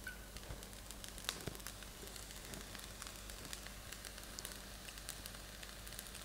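Fried rice sizzling and crackling faintly in a hot pan, with a couple of sharper ticks about a second and a half in.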